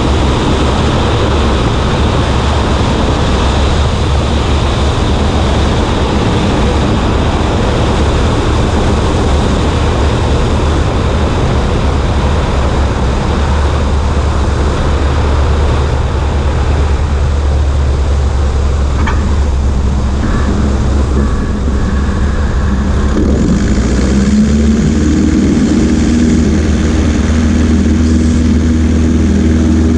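Cessna 140A's engine and propeller droning steadily under heavy wind rush on a wing-mounted microphone. The tone shifts and grows a little louder about two-thirds of the way through.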